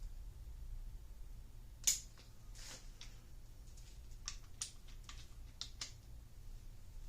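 Torque wrench working a cylinder-head stud nut: a series of short, sharp metallic ratchet clicks at irregular spacing, the loudest about two seconds in and a cluster between about four and six seconds, as the nut is taken up toward 30 ft-lb.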